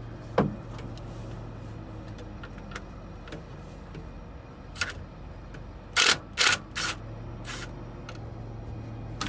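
Steady idle of a running tractor engine, overlaid by short metallic clanks of a wrench on the alternator's mounting bolts, with a quick run of three or four louder clanks about six seconds in.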